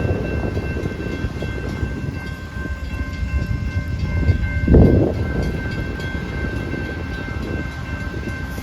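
Amtrak passenger train led by a GE P42 Genesis diesel locomotive, rumbling steadily at the station, with wind buffeting the microphone. There is one brief louder gust or bump about halfway through.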